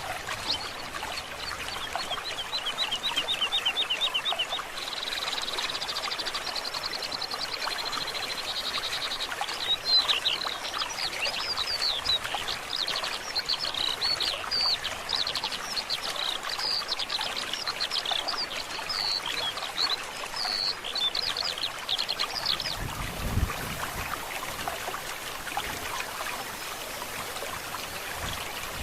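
A forest stream running steadily, with a bird singing over it: fast trills of short repeated high notes, then a long run of varied chirps that stops about 22 seconds in. A brief low rumble comes soon after.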